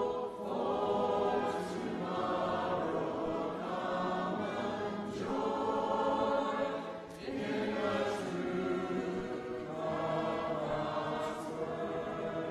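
Congregation singing a hymn a cappella, many voices together in long sung phrases with short breaks for breath.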